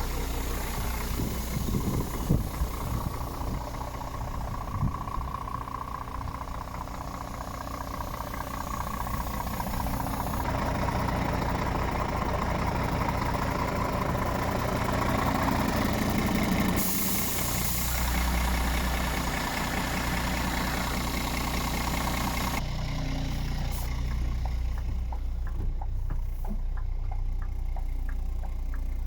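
Scania R450's 13-litre inline-six diesel idling steadily. Its tone changes abruptly three times as it is heard from different positions, with a few short ticks in the first few seconds.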